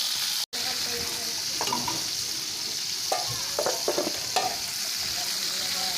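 Food frying in a pan with a steady sizzle, and a few clinks of a utensil against the pan from stirring, clustered in the middle.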